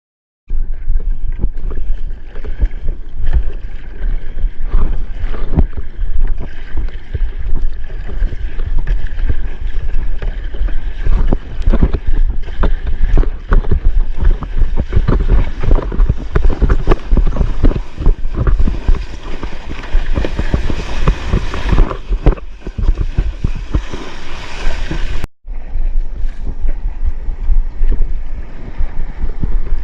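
Wind buffeting a GoPro's microphone over rushing, splashing seawater around a stand-up paddleboard in big surf.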